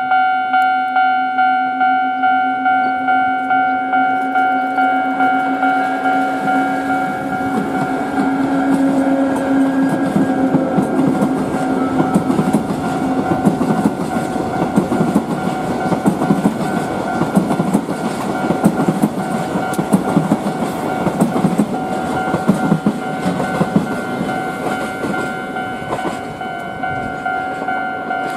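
Freight train of Hoki 10000 coal hopper wagons hauled by a Chichibu Railway Deki-class electric locomotive rolling past, wheels clattering over the rail joints. The rumble builds from about eight seconds in, peaks mid-way and eases near the end. Throughout, a repeating bell rings steadily at about two strikes a second.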